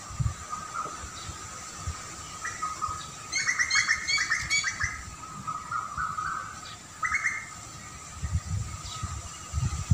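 A small bird chirping in a quick run of short notes a few seconds in, with one more brief call a little later. Irregular low rumbles come and go underneath.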